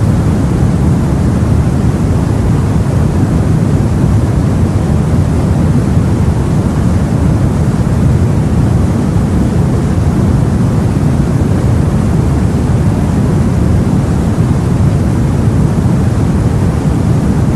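Steady, deep rushing noise of the sea heard aboard a boat, even throughout with no distinct waves breaking.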